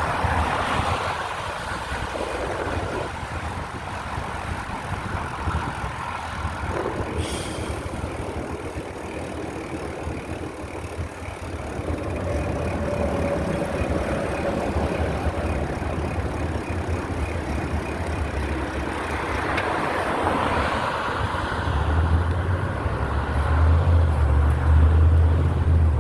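Wind buffeting the microphone of a moving bicycle, with road and tyre noise, as a steady rumble that grows louder and deeper in the last few seconds.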